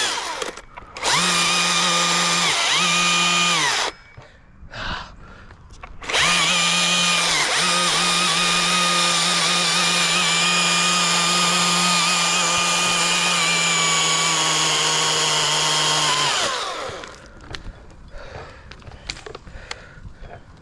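Chainsaw running at full throttle in bursts while cutting a tree limb. It dips briefly a few times, then makes one long cut of about ten seconds, its pitch sagging under load, before it is let off to stop.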